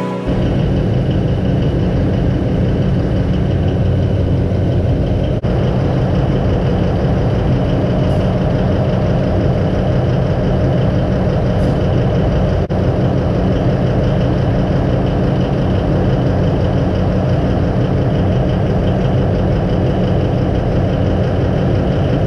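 Cummins QSK50 V16 diesel engine running steadily at idle, a deep even drone, with two very brief dropouts partway through.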